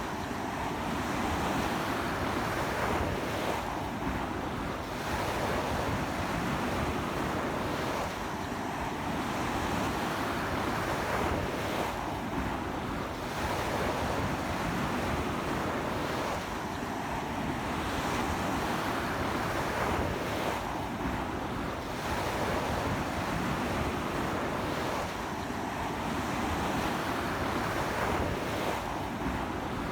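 Waves breaking and washing up a beach in very strong wind, the surf swelling and easing every four seconds or so, with wind rumbling on the microphone.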